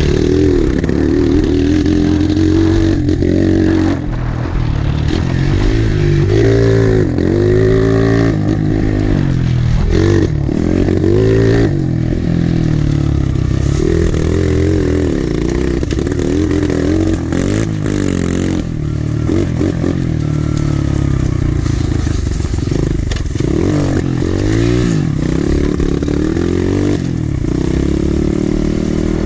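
Pit bike engine being ridden, its revs rising and falling again and again as the throttle is opened and closed, with some clatter.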